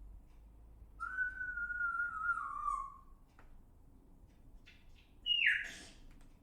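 A bird whistling: one long clear note of about two seconds that sags slightly in pitch, then near the end a short note that drops sharply with a brief rasp.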